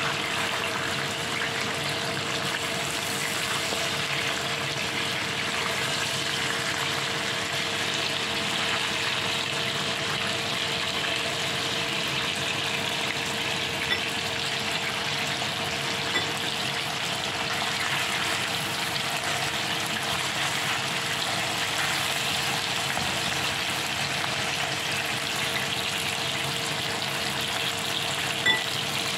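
Chicken steaks and chopped garlic sizzling steadily in hot oil in a nonstick frying pan, with a few faint clicks about halfway through and near the end.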